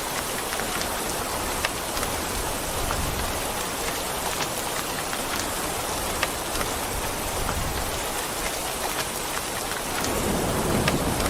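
Steady heavy rain falling, with scattered sharp drop ticks through the hiss. A low rumble of thunder builds in near the end.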